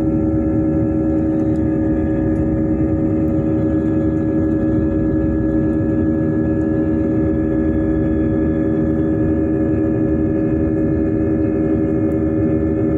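Airliner jet engines heard from inside the passenger cabin: a steady drone of several held humming tones over a low rumble, neither rising nor falling.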